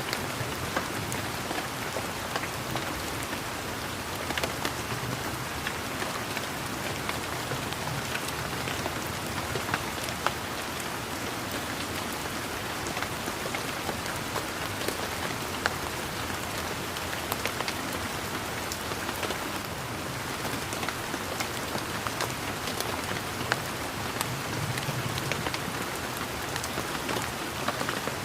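Steady rain falling, with many separate drops striking close by as sharp, irregular ticks over an even hiss.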